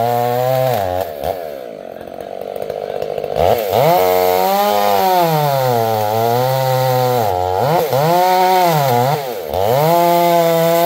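Two-stroke chainsaw engine revving up and down several times, its pitch rising and falling, dropping back toward idle for a moment about two seconds in.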